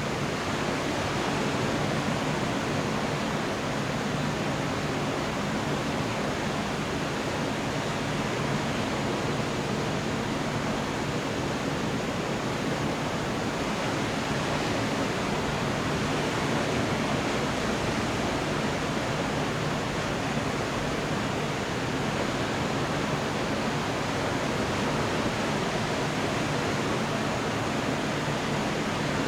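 Steady heavy rain falling: an even, unbroken hiss with no thunder claps and a faint low hum underneath.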